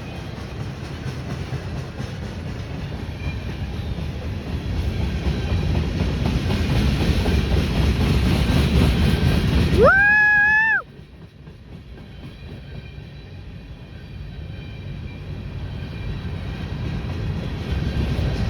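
Freight train passing close by, its wheel and rail noise growing louder. About ten seconds in there is a short single blast of the locomotive horn that rises to pitch and holds for about a second before cutting off abruptly. Quieter train noise follows and builds again near the end.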